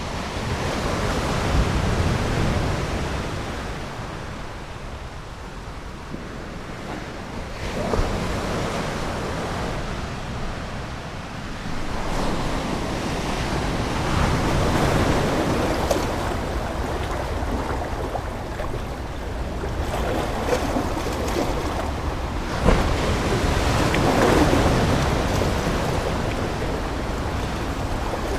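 Ocean waves breaking and washing up a shore, the surf swelling and easing every few seconds, with one sharper splash near the end.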